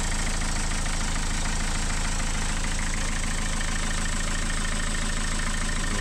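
Car engine running steadily, a low even hum.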